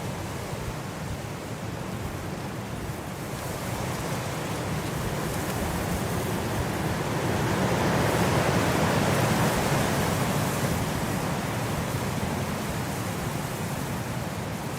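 Blizzard wind: a steady rushing noise that swells into a stronger gust about halfway through, then eases off again.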